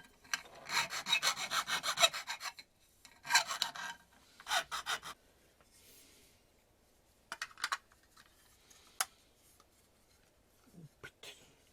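Fast, even scraping strokes for about two seconds, then two shorter bursts of strokes, followed by a few sharp clicks and a faint knock near the end.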